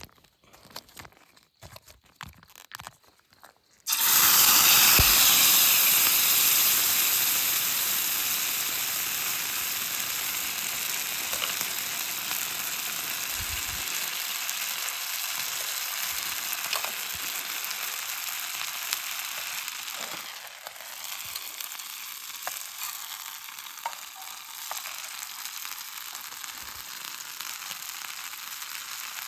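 Food frying in a hot greased pan: a sizzle starts suddenly about four seconds in, after a few faint handling clicks, and slowly dies down while it keeps sizzling.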